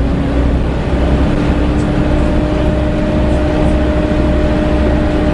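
Volvo B7TL double-decker bus heard from inside, its 7-litre six-cylinder diesel running over a low rumble, with the loud 'hoovering' whine of the engine cooling fan held steady at one pitch.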